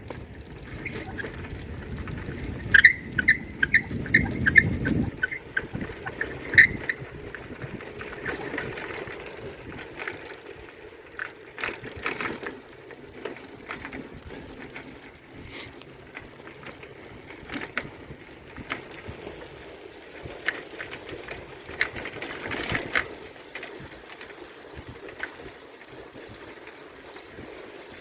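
Bicycle riding noise: wind rumbling on the microphone and the bike rattling over the ground. About three seconds in comes a run of sharp, evenly spaced ticks, roughly two a second, followed by scattered clicks.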